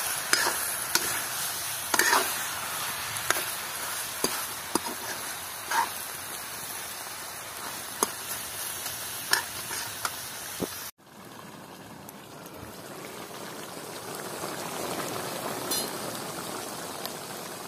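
Chicken sizzling in a hot iron kadai while a metal spatula stirs it, scraping and knocking against the pan about once a second. About eleven seconds in, the sound cuts to a quieter, steady bubbling of the chicken curry boiling.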